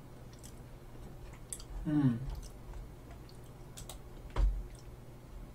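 Quiet chewing of a White Cookie Pepero stick with a few faint clicks, a short falling hum from the eater about two seconds in, and a soft thump after about four seconds.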